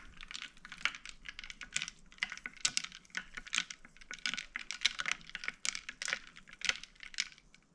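Ice cubes clinking and rattling against the sides of a glass as iced oat milk and espresso are stirred with a wooden spoon: a quick, uneven run of small hard clicks.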